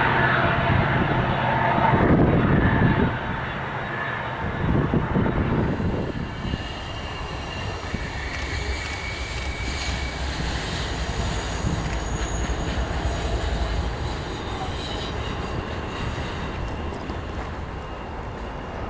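Union Pacific diesel locomotives hauling a double-stack container train: a loud engine drone for the first few seconds, then a quieter steady rumble of the train rolling on the rails.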